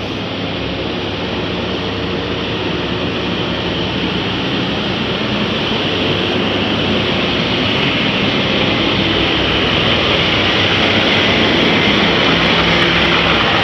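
Heavy truck's diesel engine running under load, a loud, continuous mechanical noise that grows gradually louder.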